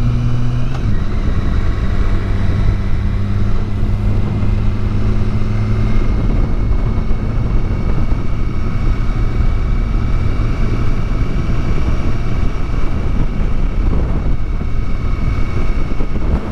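Motorcycle engine running under way with steady wind rush on the microphone; the engine note drops about a second in and sinks into the wind noise partway through.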